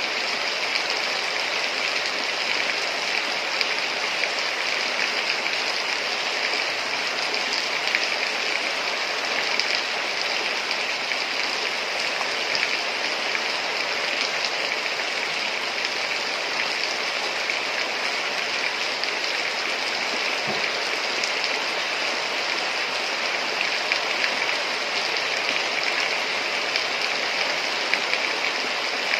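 Heavy rain falling, a steady dense hiss with scattered small drop ticks.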